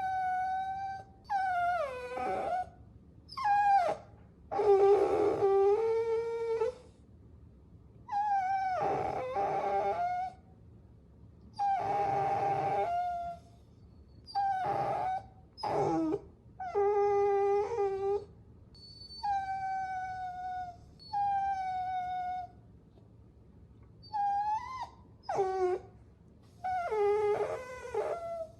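Puppies whining: about a dozen high, drawn-out whimpers, each one to two seconds long with short pauses between, some holding a steady pitch and some sliding downward.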